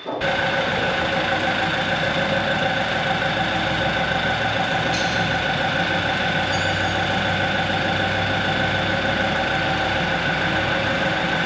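Engine running steadily at idle, a constant low rumble with a steady whine over it, starting abruptly and holding unchanged.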